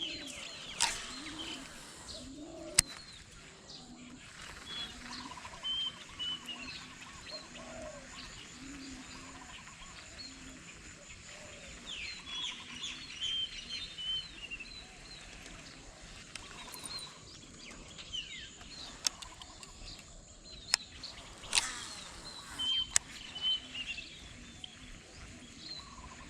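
Birds chirping in short repeated calls, with lower short calls and a few sharp clicks mixed in.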